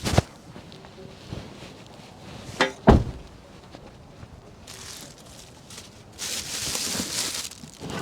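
A few sharp knocks and thuds, the loudest a double knock about three seconds in, followed by stretches of rustling hiss.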